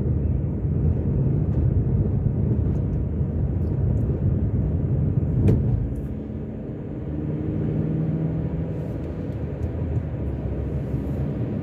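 Car driving, heard from inside the cabin: a steady low rumble of road and engine noise, with a single sharp click about halfway through.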